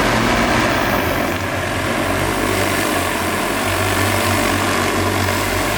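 Large cargo delivery drone's propellers running, a loud steady hum.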